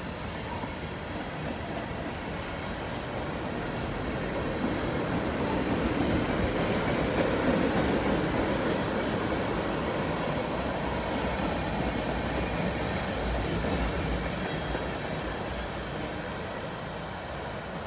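Tank cars of a long freight train rolling past, their wheels running steadily on the rails, growing louder to a peak about halfway through and easing off toward the end.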